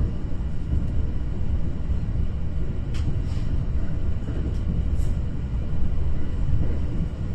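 Train running with a steady low rumble, with a few faint clicks about three and five seconds in.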